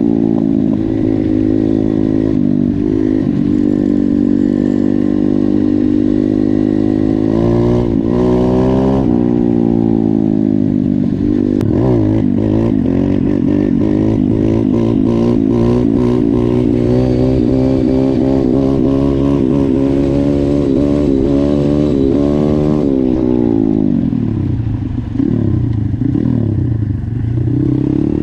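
YCF 150 pit bike's single-cylinder four-stroke engine running under way, its revs rising and falling as the bike is ridden. The revs drop away late on and climb again near the end.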